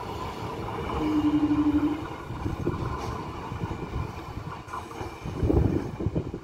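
Conventional electric multiple unit (EMU) local train running away down the line, its wheels rumbling and clattering over the track, fading as it draws off. A brief steady tone sounds about a second in.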